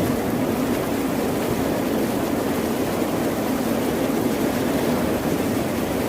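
Ocean surf as a steady, even rush of noise, with no single breaking wave standing out.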